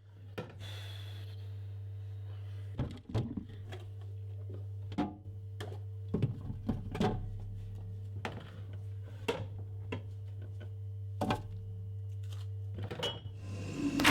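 A steady low hum in a small room, broken by about a dozen irregular knocks and clinks of objects being handled and set down.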